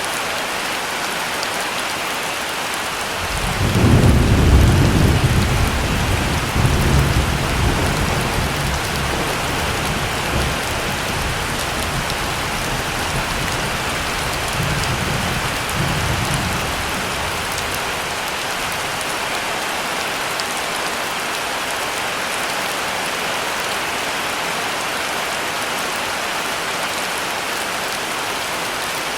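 Steady heavy rain, with a long roll of thunder starting a few seconds in. The thunder is loudest at first, rumbles on in several swells and dies away after about fifteen seconds, leaving only the rain.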